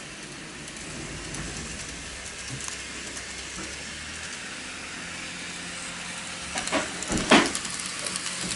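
A train running on rails, a steady rumble and hiss with light clicking, broken by two loud clanks about seven seconds in.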